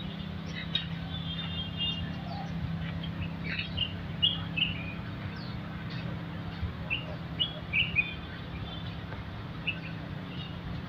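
Birds chirping in the trees, many short high notes, busiest in the middle stretch, over a steady low hum.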